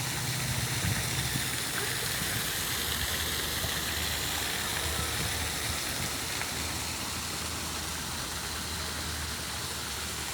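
Steady rushing and splashing of water from a pond fountain, with a low rumble underneath.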